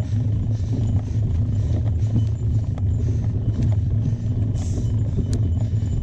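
Steady low rumble of wind and rolling noise on the camera microphone while riding a mountain bike, with short patches of hiss and a sharp click about five seconds in.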